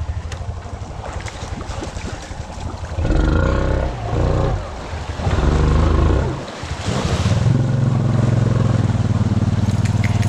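Honda Rancher ATV engine revving hard in several surges while the four-wheeler works through deep creek water, with a rush of splashing water about seven seconds in. It then runs steadily at high revs.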